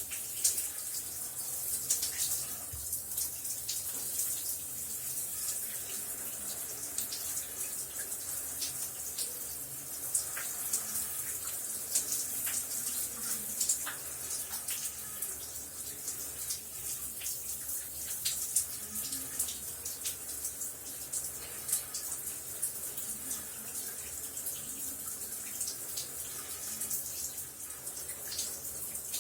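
Shower running steadily: a continuous high hiss of spray with many small spattering drops hitting a surface.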